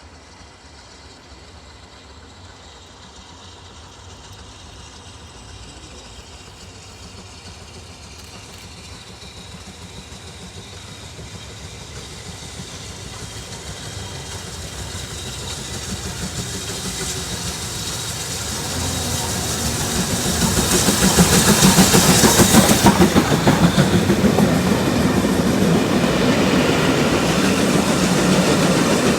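A train approaching, growing steadily louder for about twenty seconds, then running loud and steady as it passes close.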